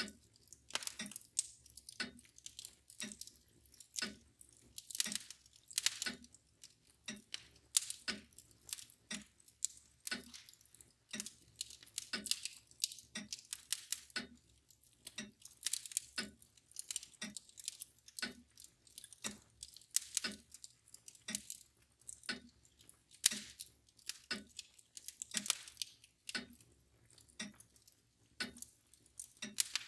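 Wood fire crackling with irregular sharp pops, over the steady ticking of a mantel clock at about one tick a second.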